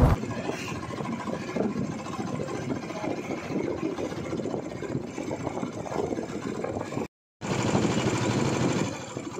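Royal Enfield Bullet's single-cylinder engine running as the motorcycle is ridden, a rapid even pulsing beat. It cuts out briefly about seven seconds in and comes back louder.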